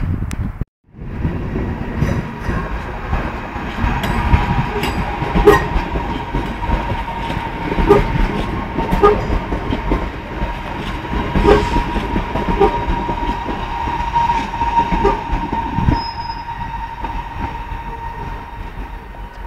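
A passenger train running along the platform, its wheels clicking over rail joints roughly once a second, with a steady high whine over the rumble.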